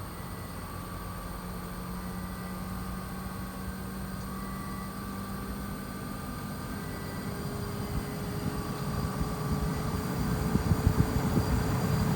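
Toshiba RAS-5066AD air conditioner running: a steady hum with faint steady tones over fan and airflow noise. A rough, low rumbling grows louder over the last few seconds.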